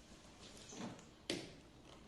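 Quiet handling noises with one sharp knock a little past halfway.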